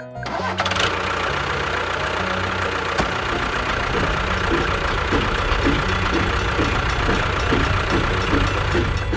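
An engine running steadily, starting about a third of a second in.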